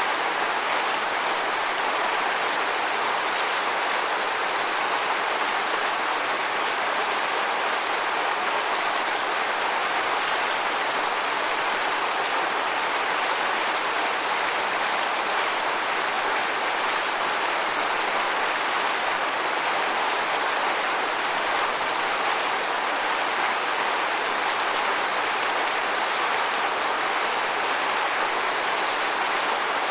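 Waterfall: water pouring and splashing in a steady, even rush, strongest in the mid and upper range, with little low rumble.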